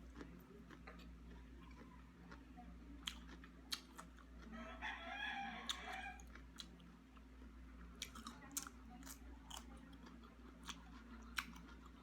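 A rooster crows once, starting about four seconds in and lasting about two seconds. Faint scattered clicks of chewing and utensils and a steady low hum run underneath.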